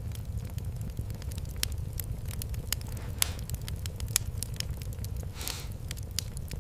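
Fireplace fire crackling, with irregular sharp pops over a steady low rumble of the flames, and a brief hiss about five seconds in.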